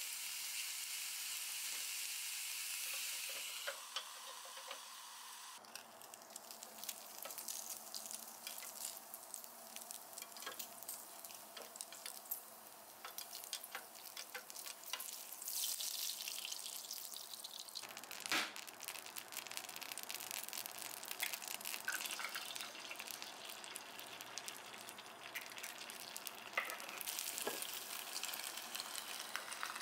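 Bacon, and later an egg, sizzling and crackling in a hot aluminium stovetop waffle pan, a steady hiss full of small pops. One sharp metallic click about two-thirds of the way through.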